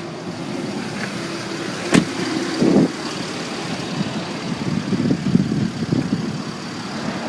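Mercedes-Benz ML320 CDI's turbo-diesel engine idling, with a sharp click about two seconds in and a short louder burst soon after.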